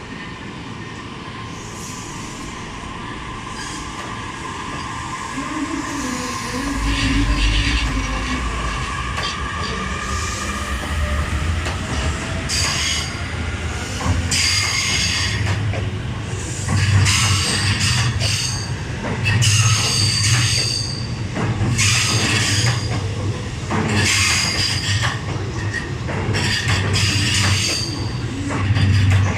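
Electric train running along the platform. A low rumble builds about seven seconds in, and high-pitched wheel squeals on the rails repeat again and again from about twelve seconds on.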